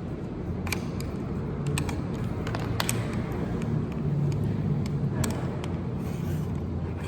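Steady low rumble of a motor vehicle or road traffic, with a few brief sharp clicks.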